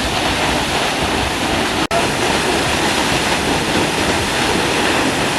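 Waterfall rushing, a steady loud roar of falling water with a momentary break about two seconds in.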